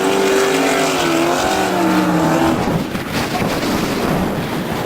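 Off-road race truck engine running hard, its note rising and falling with the throttle and dropping lower just before halfway. After that the clear engine note gives way to a rough, noisy roar.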